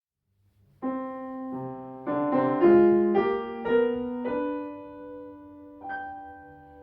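Piano introduction to a musical-theatre song: after a brief silence, a quick run of struck chords, then held notes fading away with one more note struck near the end.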